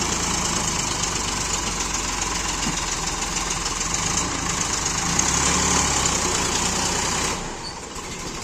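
Heavy diesel engine running steadily under load, a little louder from about five seconds in, then easing off suddenly near the end.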